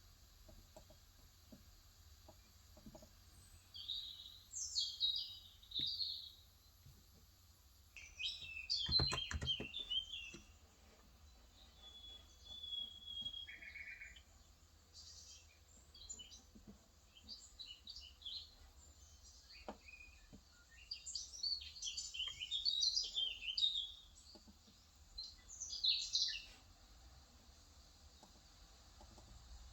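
Small birds chirping and twittering in short bursts every few seconds, with faint scattered keyboard keystrokes underneath and a brief cluster of knocks about nine seconds in.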